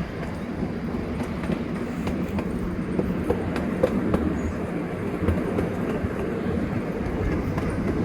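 Small tourist train running along its track, heard from aboard an open carriage: a steady rumble with scattered clicks and knocks from the wheels and couplings.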